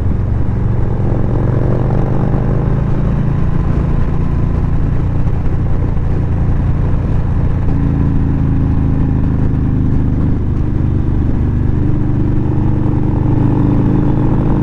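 Motorcycle engine running steadily under way, with rushing air noise; its pitch climbs a little in the first couple of seconds, then holds.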